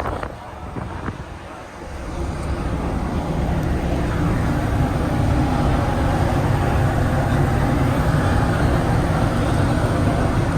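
A steady engine drone with a constant hum, building up about two seconds in and then holding level.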